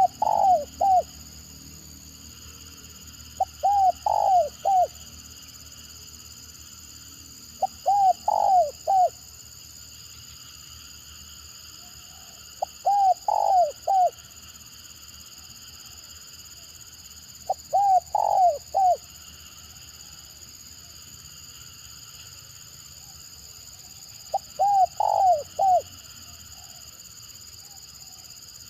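Spotted dove (tekukur) cooing a broken, stuttering call: a quick cluster of three or four coo notes, repeated six times about every four to five seconds. A steady high-pitched hum sits in the background.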